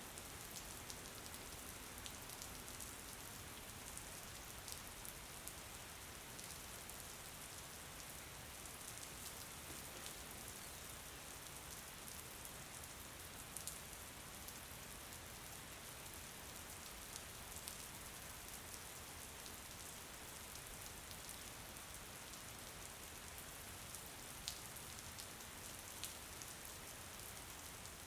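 Steady rain falling: an even hiss with scattered sharper taps of individual drops, one louder tap near the end.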